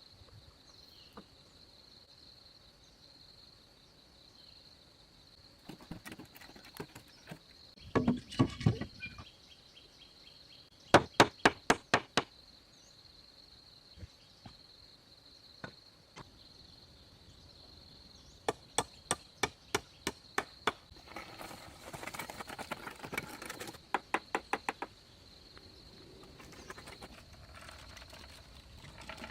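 Several bursts of quick, sharp strikes, about four a second, from hand tools working wood, with some rougher clattering among them. A steady high insect drone runs underneath.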